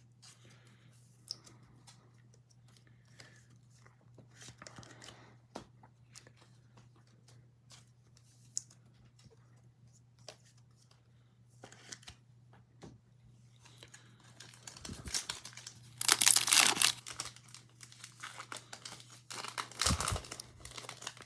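Football trading card pack being torn open by hand: light rustling and clicks of card handling, then the wrapper tearing and crinkling loudly twice, the louder about three-quarters of the way through and again near the end, over a faint steady low hum.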